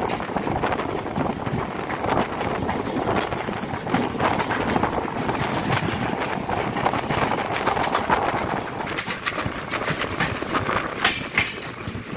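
Passenger train running on the rails, a continuous rumble with many irregular clicks and rattles from the wheels and the coach.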